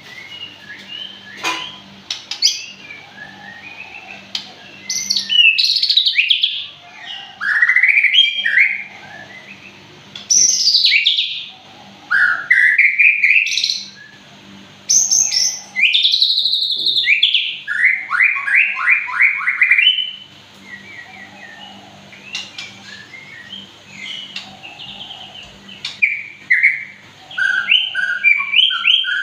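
White-rumped shama (murai batu) singing a loud, varied song: rising whistled sweeps and fast trills in bursts, with softer chirps between them.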